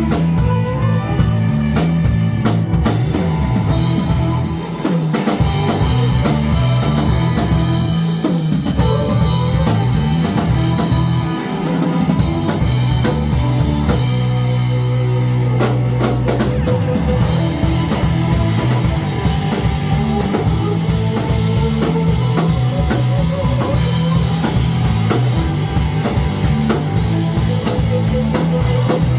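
Rock band playing live, drum kit and guitars with no singing heard. About halfway through, the drums drop out for a few seconds under a held chord, then come back in.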